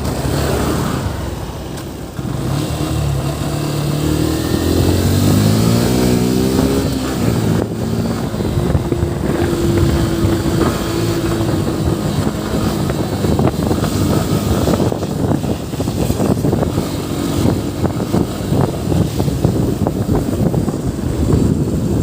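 Yamaha FZ V3's single-cylinder engine running under way, its pitch rising as it accelerates a few seconds in, then holding steadier. Wind noise buffets the microphone throughout.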